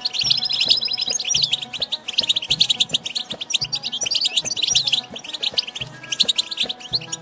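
European goldfinches twittering: a continuous, dense chatter of rapid high chirps and trills.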